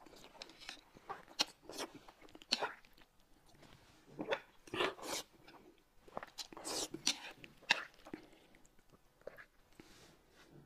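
A man eating noodles and a peeled boiled egg close to the microphone: soft irregular chewing, biting and mouth-smacking sounds, a handful of them louder than the rest.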